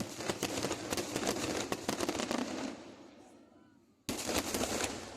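Fireworks going off in rapid volleys of sharp cracks and bangs, a dense crackling burst that dies away after a couple of seconds, then a second burst that starts suddenly about four seconds in.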